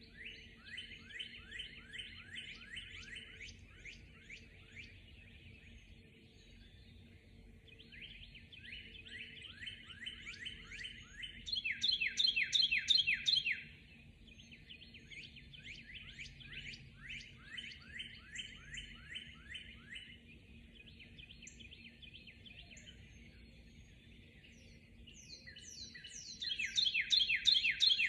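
Birds singing in a dawn chorus: rapid trills of quick downward-sweeping notes, several a second, repeated in phrases a few seconds long, with two louder bouts, one about halfway through and one near the end. A faint steady low hum lies underneath.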